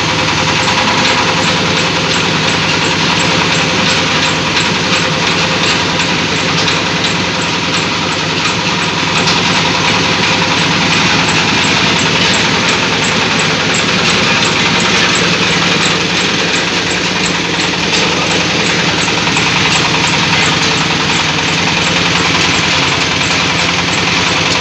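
Meat and meatball grinding machine running steadily, with a loud, even mechanical drone that comes up right at the start and holds.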